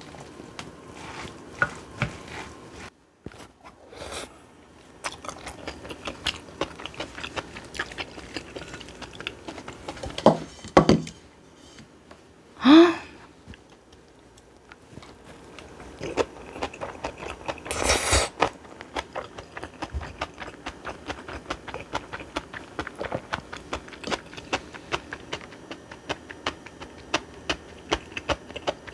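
Kitchen utensils and dishes clinking, tapping and scraping during food preparation, with a short loud rising squeak-like tone about 13 seconds in and a brief hissing burst around 18 seconds.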